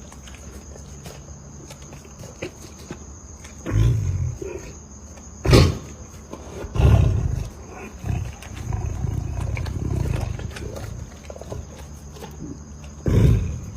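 A big cat growling and roaring in several deep bursts, one of them drawn out for about two seconds. A single sharp crack about five and a half seconds in is the loudest sound.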